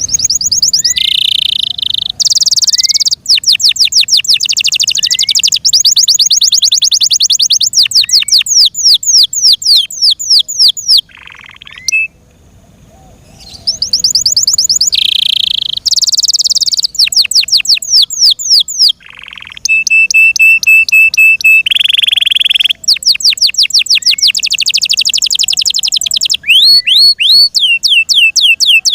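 F1 Yorkshire-cross canary singing a loud, high-pitched song of fast repeated trills and rolls. It breaks off briefly about twelve seconds in and again near the middle, with a short held whistle just after the second break.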